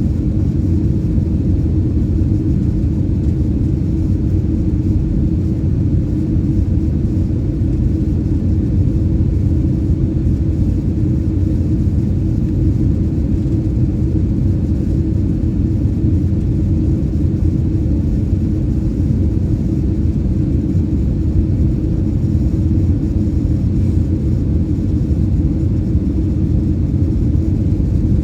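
Steady low rumble of an Airbus A319's cabin noise in flight, the sound of its CFM56 engines and airflow heard from a passenger seat, even in level with no changes.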